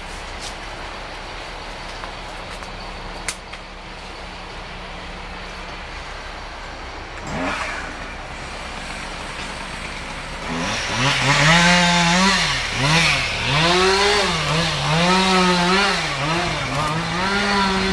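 Chainsaw engine, faint and steady at first with a short rev near the middle, then from about ten seconds in revving hard up and down over and over, roughly once a second.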